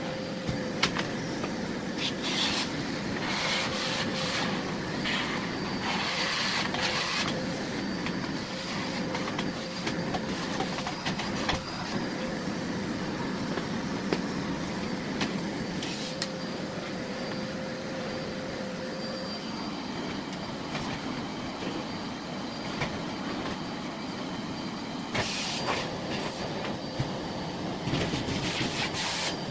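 Miele Blizzard CX1 bagless cylinder vacuum cleaner running steadily at full suction, with a held whine. Scattered clicks and rattles come through as grit and bits are picked up from the garage floor.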